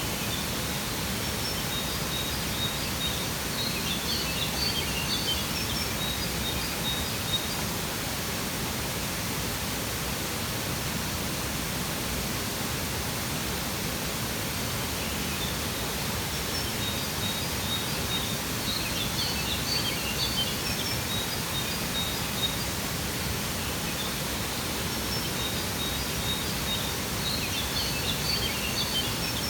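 Steady rushing of a waterfall, with a bird singing spells of quick high chirps three times over it.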